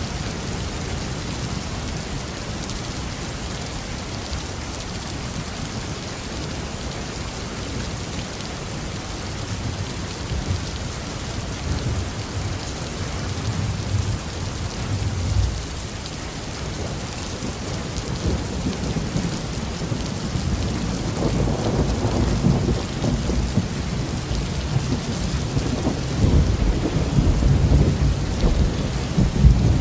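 Heavy rain falling steadily, with rolling thunder rumbling underneath: a low rumble swells about a third of the way through, and a louder, longer roll builds from about two-thirds of the way in and runs on near the end.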